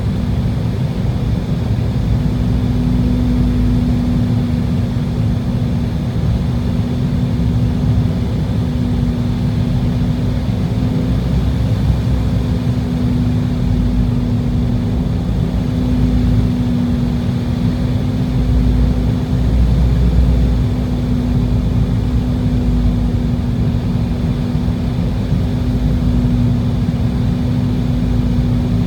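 Cabin noise of an Embraer E190 airliner in flight: the steady rumble of its GE CF34 turbofan engines and the rushing airflow, with one steady hum held throughout.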